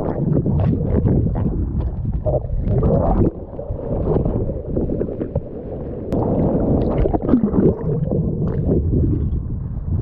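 Surf water sloshing and gurgling around a waterproofed camera as a bodysurfer swims through the break, the sound muffled and irregular, with short splashy spikes.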